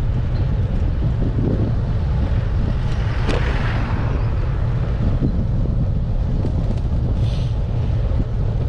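Strong wind buffeting the microphone of a bike-mounted GoPro action camera, a loud steady low rumble that covers nearly everything else.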